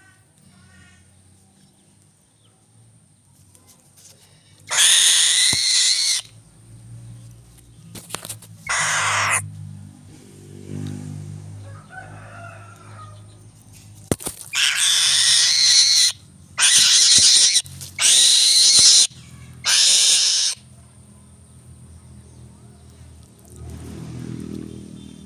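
Eagle giving harsh, noisy calls in six loud bursts of about a second each, with quieter gaps between.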